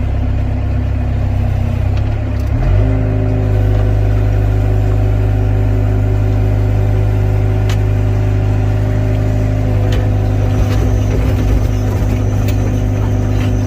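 Excavator diesel engine running, rising in speed about two and a half seconds in and then holding a steady higher speed, with a few light knocks near the end.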